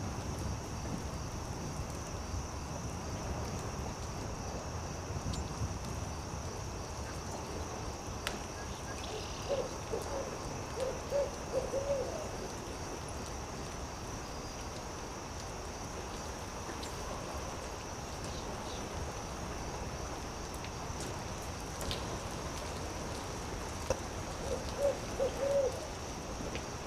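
An owl hooting: two quick runs of short low hoots, one about ten seconds in and another near the end, over a steady low rumble, a steady high hiss and a few sparse campfire crackles.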